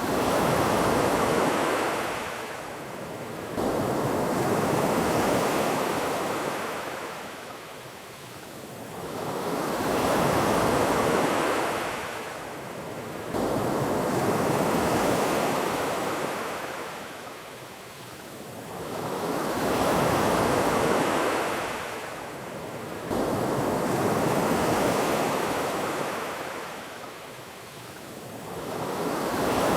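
Ocean surf breaking and washing onto a beach in slow swells, one about every five seconds, each surge rising and then fading away.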